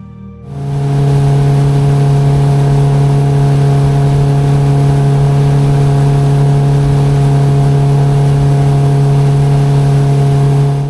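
Outboard motor running steadily at speed on a small planing boat, a loud, even low drone with rushing wind and water noise. It starts about half a second in and cuts off suddenly at the end.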